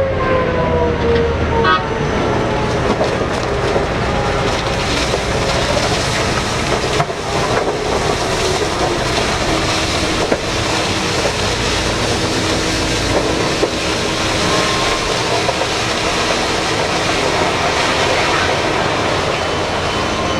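Steady vehicle noise, with a tone gliding downward and fading out over the first two seconds.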